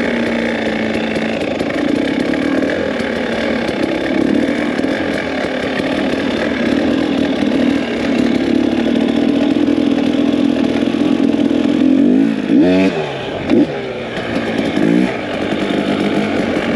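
Two-stroke dirt bike engines running at low, steady revs while riding slowly. Several quick rev blips rise and fall about three-quarters of the way through.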